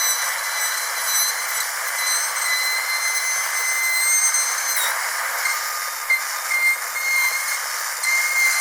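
Dentist's drill whining steadily at a high pitch over a hiss, with a brief dip in pitch about five seconds in.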